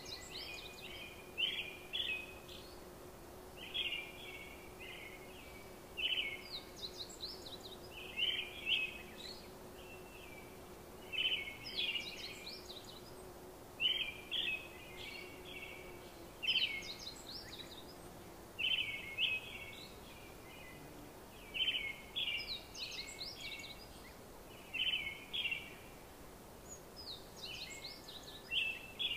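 A bird singing short, high chirping phrases over and over, about one every two seconds, over steady background noise.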